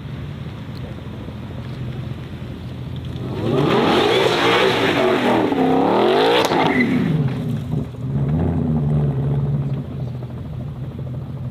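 Race car engine accelerating hard, its pitch climbing steeply for about three seconds at full volume, then dropping away sharply as the car passes. A lower, steady engine drone carries on afterwards.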